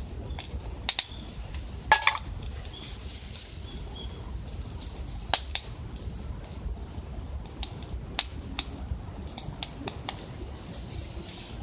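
Wood fire in a stove crackling: irregular sharp snaps and pops, the loudest about one and two seconds in.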